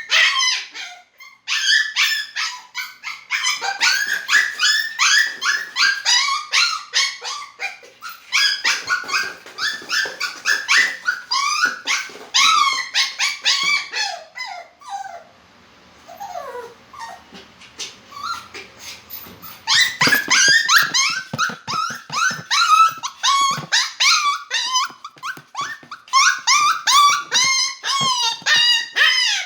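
Poodle whining and yipping: rapid runs of short, high-pitched cries, many bending down in pitch, with a sparser stretch about halfway through.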